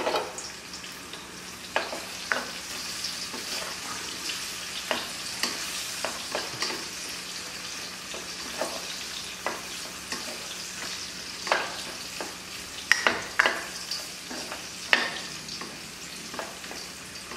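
Sliced shallots and garlic sizzling in hot oil in a stainless steel wok, with irregular clicks and scrapes of a spatula stirring against the pan.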